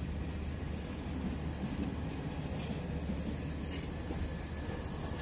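Passenger train coaches rolling past along the rails: a steady low rumble of wheels and running gear.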